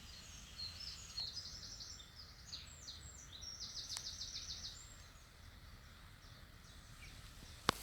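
A small songbird singing, a run of high, quick chirps ending in a fast trill, over faint outdoor hiss. A single sharp click near the end.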